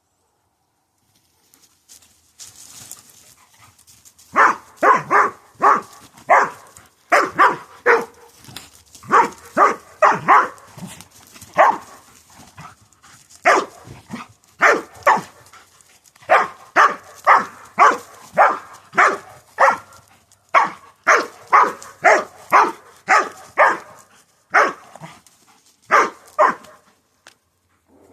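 A dog barking in play, in quick runs of three or four barks with short pauses between runs, starting about four seconds in. The first few seconds hold only faint low noise.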